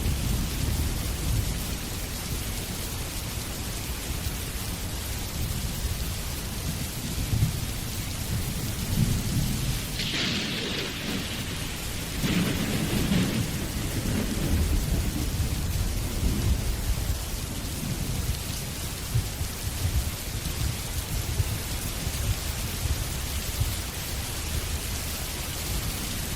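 Steady rain with low rolling thunder, the rumble swelling most about twelve to seventeen seconds in. A brief, brighter hiss comes about ten seconds in.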